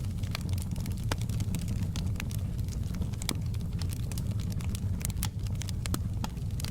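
Fireplace fire crackling: irregular sharp pops and snaps, a few every second, over a steady low rumble of the flames.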